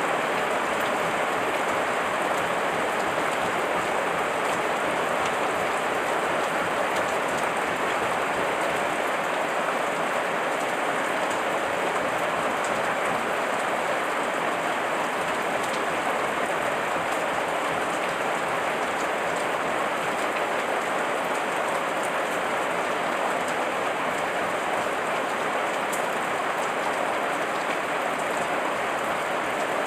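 Heavy rain falling steadily, an even hiss of rain on surfaces with faint scattered drop ticks.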